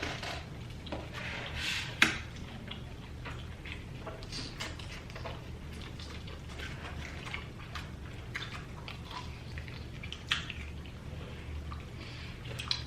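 Close-up eating of chicken wings: scattered chewing and smacking noises, with clicks and rustles of the food containers being handled, over a low steady hum.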